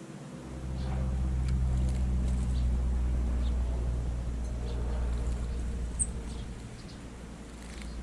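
A low, steady engine drone from a nearby motor vehicle swells in about half a second in, holds, and eases off briefly near the end. Small birds give faint short chirps over it, with one sharp high chirp about six seconds in.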